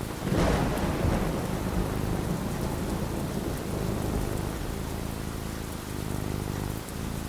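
A thunderclap just after the start, rolling off into a low rumble over the next few seconds, over steady falling rain.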